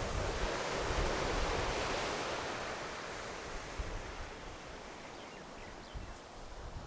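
Ocean surf washing on the shore: a wave's rushing noise swells in the first couple of seconds, then slowly fades away.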